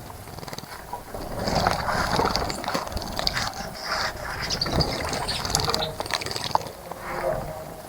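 Bathing birds splashing and fluttering in the shallow water of a bird bath, in irregular bursts.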